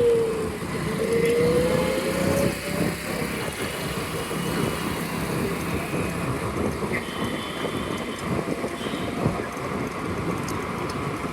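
Wind rushing over the microphone and the noise of road traffic while riding a scooter. In the first few seconds a whine dips and then climbs again in pitch.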